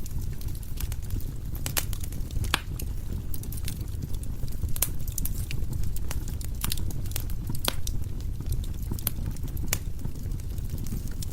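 Firewood logs burning in a fireplace: a steady low rumble of the flames with sharp, irregular crackles and pops from the wood.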